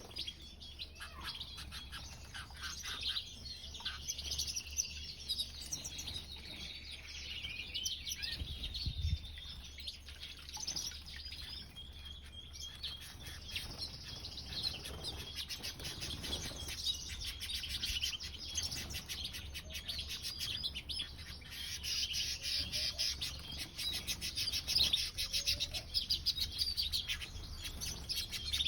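Canaries and European goldfinches chirping and twittering continuously, many quick high notes overlapping.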